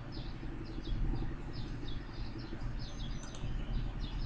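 Small birds chirping in the background, short quick falling chirps several times a second, over a steady low hum. A couple of sharp computer mouse clicks about three seconds in.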